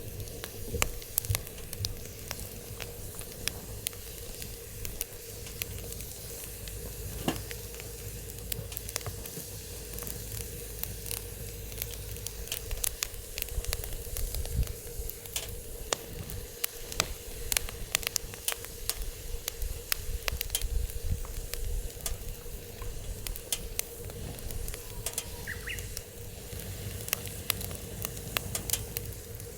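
Wood fire crackling in a fire pit, with frequent sharp pops and snaps over a steady hiss of burning, and a low rumble underneath.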